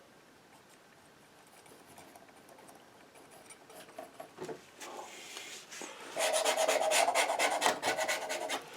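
Painting knife scraping and rubbing paint: faint, scattered scrapes at first, then from about six seconds in a louder run of quick back-and-forth strokes, several a second.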